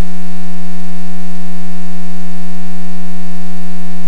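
Loud, steady electrical hum: one unchanging buzzy tone with a stack of overtones.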